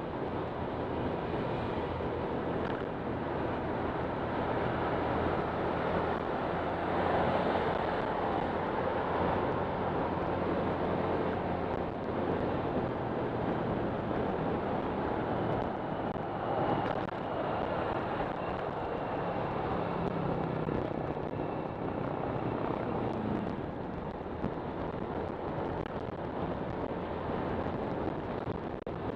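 Honda Click 125 scooter's single-cylinder engine running steadily while riding, with wind rushing over the microphone.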